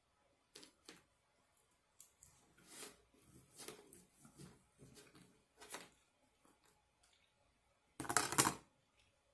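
Close-miked eating and food-handling sounds: faint scattered clicks and soft rustles, then a louder noisy burst lasting about half a second, about eight seconds in.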